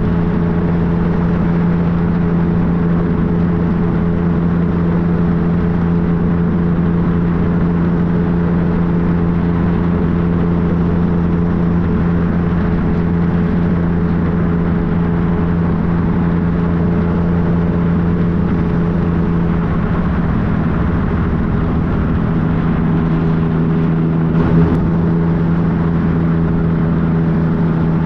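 Yamaha FJ-09's three-cylinder engine running at steady revs while riding, its pitch holding level throughout. A brief knock about three-quarters of the way through.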